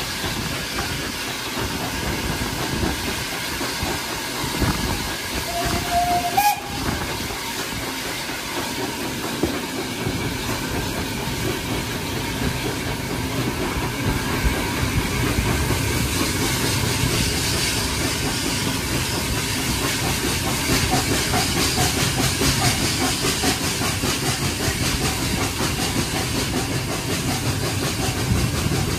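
Railway carriage running along the line, heard from an open carriage window: steady wheel and running noise that grows louder after about ten seconds. A short whistle sounds about six seconds in.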